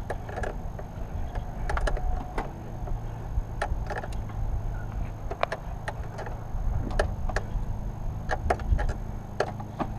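Irregular metallic clicks and knocks of hand tools and parts being handled under a car's bonnet, over a steady low hum.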